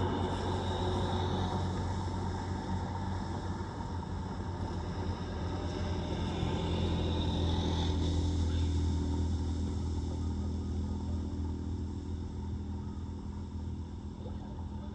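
A motor vehicle's engine drones steadily. It grows louder to about the middle, then slowly fades away.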